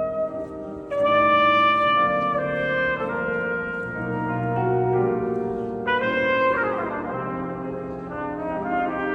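Trumpet playing a slow melody of held notes that change every second or so, with lower-pitched accompaniment underneath.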